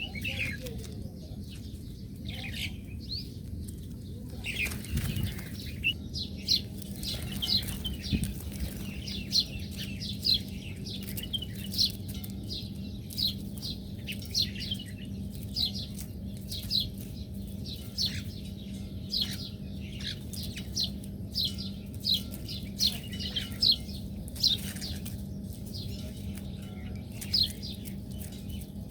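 Small birds chirping: short, high, falling notes repeated about once or twice a second, over a low steady hum.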